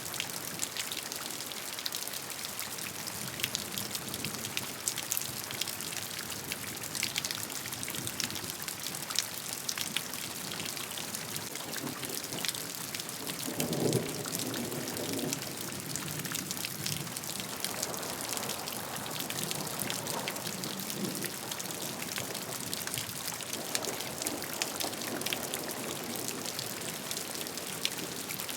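Steady rain, with many individual drops ticking on a surface. A few soft low rumbles swell up about halfway through and again later.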